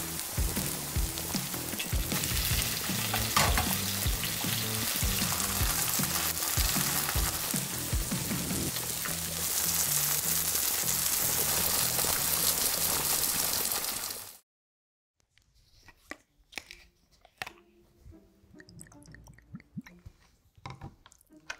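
Shrimp and minari (water parsley) pancake sizzling and crackling in hot oil in a frying pan. The sizzle cuts off suddenly about fourteen seconds in, followed by soft taps and clinks of tableware and soju poured into a small shot glass near the end.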